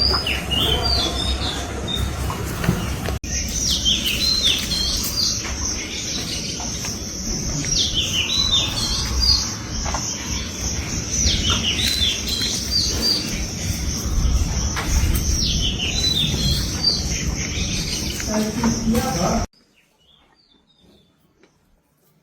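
A songbird singing the same short, warbling, falling phrase over and over, about every four seconds, over a steady high hiss and a low rumble. The sound cuts off suddenly near the end.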